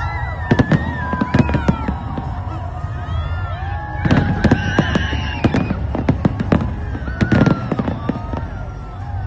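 Fireworks bursting overhead: bunches of sharp bangs and crackles about half a second to two seconds in, again around four to five seconds, and around seven seconds, over a steady low rumble. Sliding, whistle-like high tones run through it.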